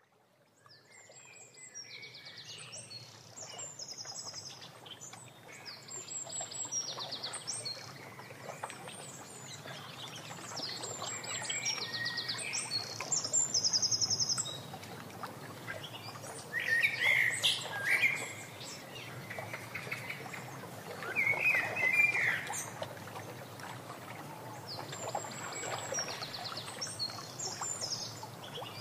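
Several small birds singing, high rapid trills repeated every second or two, with a few louder, lower calls in the middle, over a steady hiss of falling rain.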